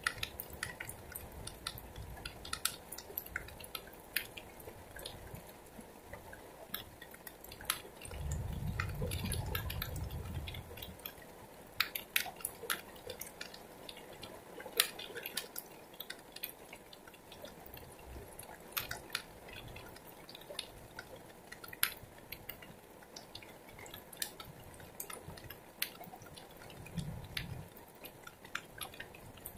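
Heavy rain falling in a downpour, with large drops dripping and splashing close by as sharp, irregular taps over a steady hiss. A low rumble swells for a few seconds about a third of the way in, and a shorter one comes near the end.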